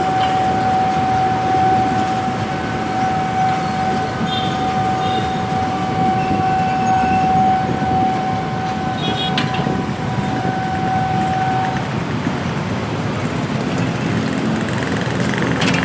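KA Serayu passenger train running past close by, its wheels rumbling on the rails. A steady high-pitched squeal runs over the rumble and stops about twelve seconds in.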